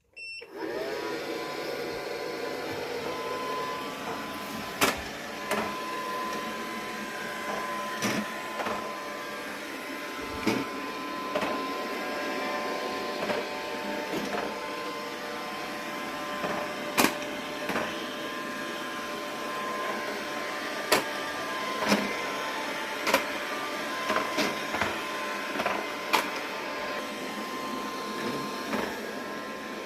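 Britânia BAS03V robot vacuum starting with a short electronic chime, then running with a steady motor and brush whir. Sharp knocks come every second or few seconds.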